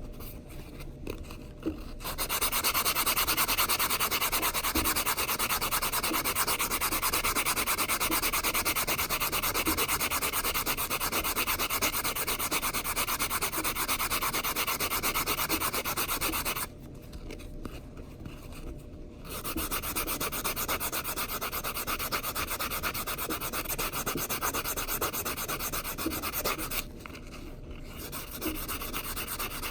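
Metal coin ring being sanded on a nail file board to smooth its cut edge: a steady, fast back-and-forth rasping rub. It starts about two seconds in and pauses briefly twice.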